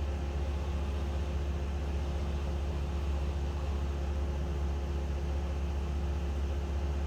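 A steady low rumble with a faint constant hum above it, unchanging throughout.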